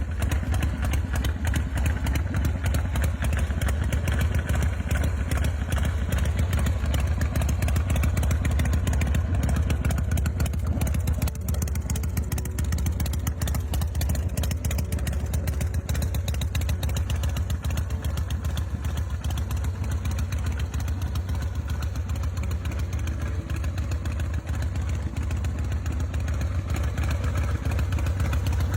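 Harley-Davidson Softail V-twin engine running steadily, a continuous low, pulsing exhaust note.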